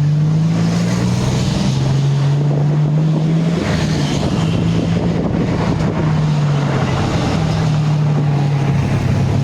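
Tuk-tuk engine running under way, its hum stepping down and back up several times as the revs change, with road and wind noise on the microphone.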